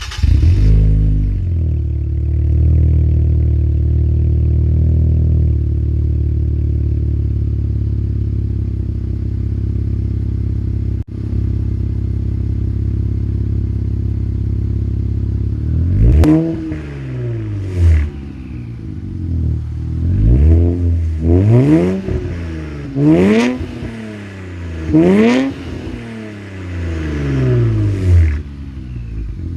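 2017 Infiniti Q50 3.0-litre twin-turbo V6 with aftermarket downpipes and an MBRP cat-back exhaust. It starts right at the outset with a quick flare, then idles, a little higher for the first few seconds before settling. From about halfway through it is blipped about six times, each rev rising and dropping back to idle.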